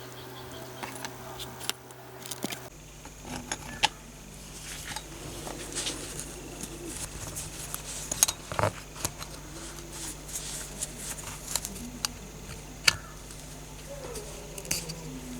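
Scattered small metal clicks and taps, irregular and a few at a time, from handling small metal parts on a workbench.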